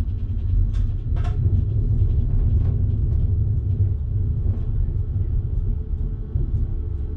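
Steady low rumble of a train running along the line, heard from the driver's cab, with two sharp clicks about a second in.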